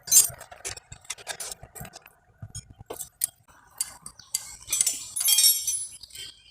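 Small metal engine parts clinking and tapping against each other as they are handled, with a denser metallic rattle between about four and six seconds in.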